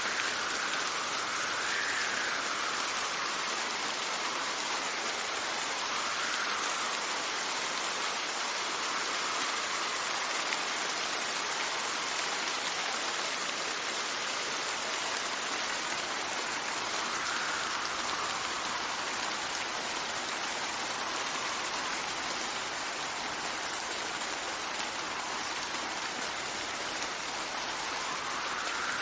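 Steady heavy rain with wind, whose gusts faintly whistle up and down in pitch a few times.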